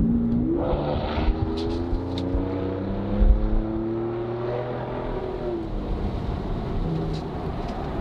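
2019 Ford Raptor's 3.5-litre twin-turbo V6 through a Borla ATAK aftermarket exhaust, heard from the cab with the windows down while driving. The engine note rises in pitch about half a second in, holds and climbs slightly, then drops off around six seconds, over road and wind noise.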